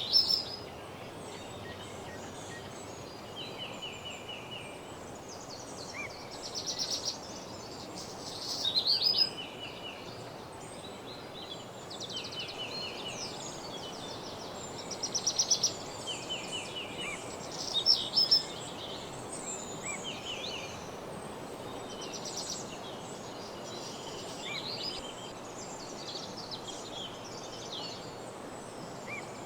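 Several songbirds singing in woodland: repeated short songs and rapid trills, the loudest near the start and around the middle, over a steady background hiss.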